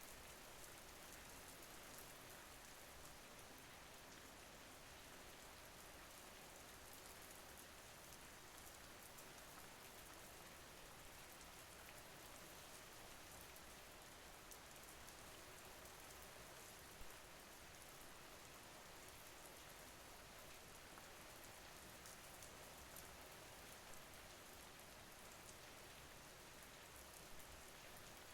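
Soft, steady rain: an even hiss of rainfall with fine ticks of individual drops, faint throughout.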